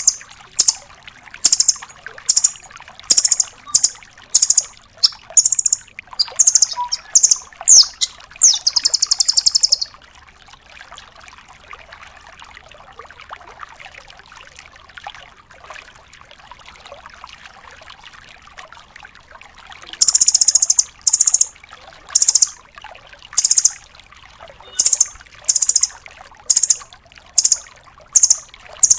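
Velvet-fronted nuthatch (rambatan paruh merah) calling in loud, sharp, high notes, about one or two a second, ending in a fast rattling trill. The calls stop for about ten seconds, then resume at the same pace near the end.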